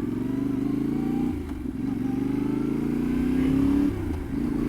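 Yamaha Ténéré 700's parallel-twin engine pulling hard under acceleration, its pitch climbing, falling briefly at a gear change about a second and a half in and again near the end, then climbing again after each shift.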